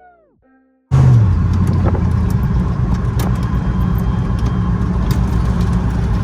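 A musical phrase fades out, then about a second in there is a sudden cut to the steady low rumble of a pickup truck driving, its engine and tyres running on the road.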